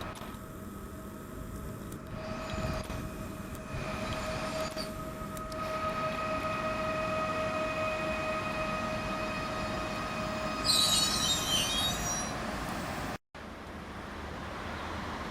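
Regional electric passenger train at the platform, giving a steady high-pitched squeal with overtones for about ten seconds, then a short burst of air hiss about eleven seconds in.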